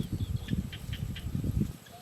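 Faint, short high bird chirps over louder, irregular low rumbling and thumping that dies away near the end.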